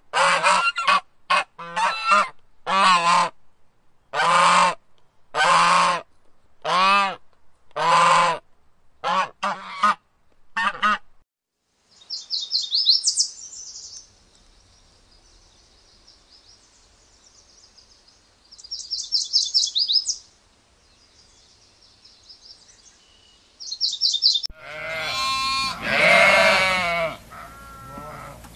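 Geese honking in a rapid series of about fifteen harsh calls. Then a small songbird gives high, rapid trills in three short bursts. Near the end a sheep bleats loudly.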